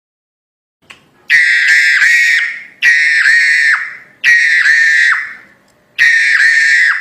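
Crested myna (jalak hongkong) calling loudly: four harsh, drawn-out calls about a second and a half apart, each ending with a quick downward drop in pitch.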